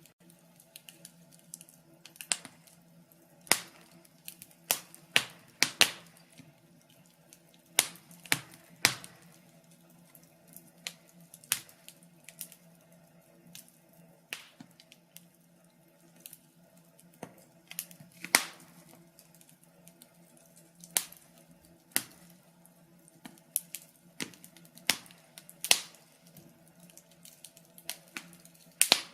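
Wood fire crackling, with irregular sharp pops and snaps about one to two a second.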